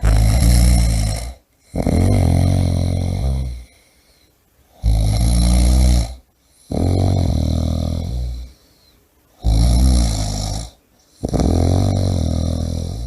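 A person snoring heavily, in loud, rough snores that come in pairs with short pauses between them, three breaths' worth at a steady pace.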